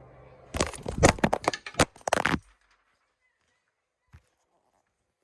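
A rapid run of loud cracks and knocks lasting about two seconds, then a single faint click.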